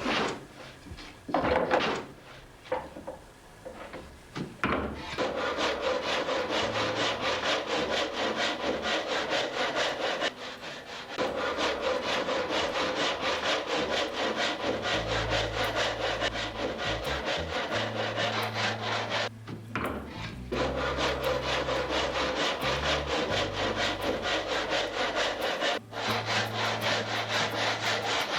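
Hand saw cutting through wood in quick, steady back-and-forth strokes, trimming excess from a wooden saddle-frame sideboard. A few knocks come first, the sawing starts about five seconds in, and it stops briefly three times.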